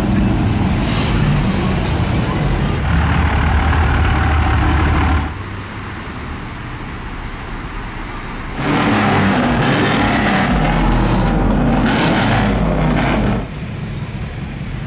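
Pickup truck engines running in road traffic. The level drops sharply about five seconds in, jumps back up a few seconds later, and drops again near the end.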